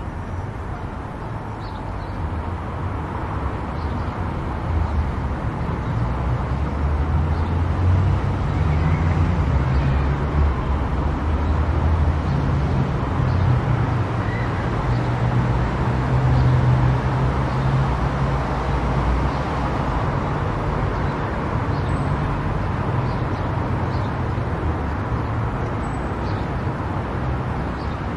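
Car cruising at highway speed: steady tyre and road noise over a low rumble, swelling somewhat in the middle and easing again near the end.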